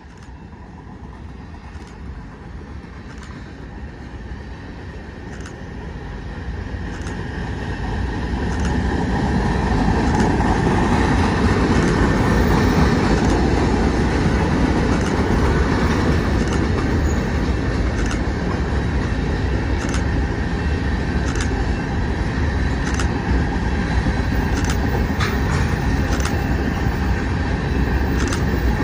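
Covered hopper cars of a BNSF grain train rolling past: a steady rumble of steel wheels on rail that grows louder over the first ten seconds and then holds, with a sharp click every second or so as the wheels pass over the track.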